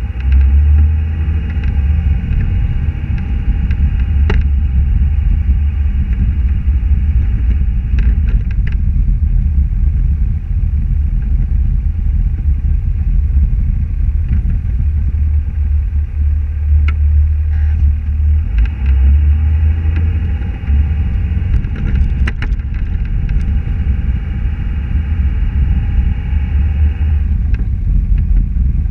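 A car driving: steady low engine and road rumble with a few faint clicks scattered through it.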